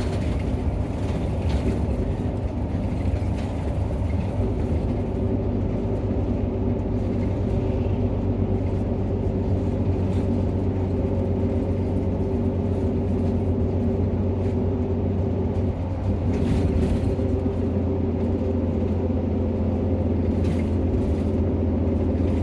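Nissan Diesel PKG-RA274KAN city bus's diesel engine running steadily, heard from inside the passenger cabin as a low, even drone.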